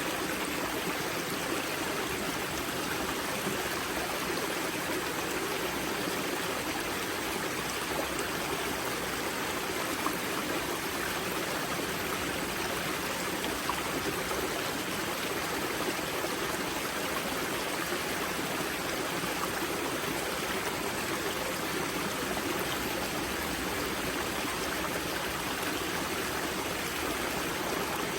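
Spring-fed river water flowing and splashing at its source, a steady, even rush.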